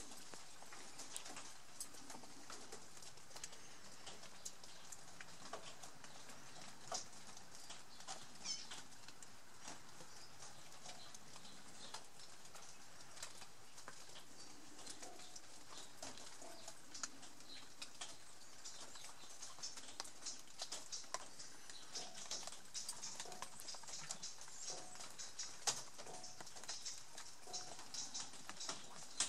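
Faint short bird chirps over a steady hiss, with irregular light ticking and pattering that gets busier in the second half.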